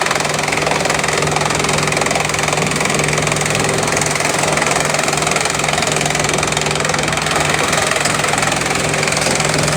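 Bamboo crushing machine running steadily: a constant low mechanical hum under a dense, even rattle of noise.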